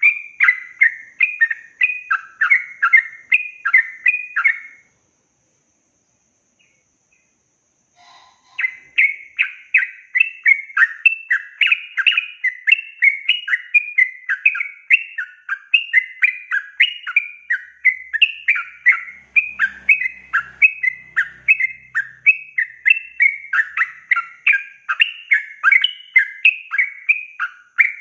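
Sooty-headed bulbul (trucukan) singing its long rapid run of repeated phrases, about two a second. The song breaks off about five seconds in, stays silent for nearly four seconds, then resumes and carries on.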